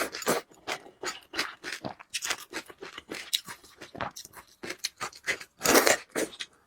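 Close-miked eating of noodles: irregular wet chewing, smacking and slurping sounds, with a longer, louder burst near the end.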